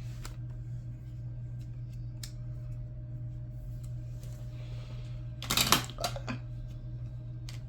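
A trading card being handled and slid into a plastic card sleeve: soft faint clicks, then a louder burst of plastic rustling and clicks about five and a half seconds in, over a steady low hum.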